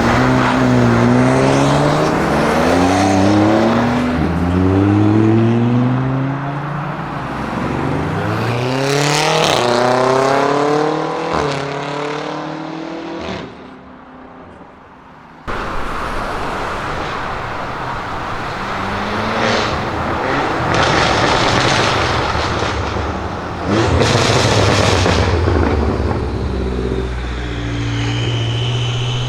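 BMW M5 F90's twin-turbo V8 with an aftermarket exhaust, accelerating hard through the gears: the engine pitch climbs and drops back at each upshift, several times over. After a short quieter gap there are more loud full-throttle runs, then the engine settles to a steady note near the end.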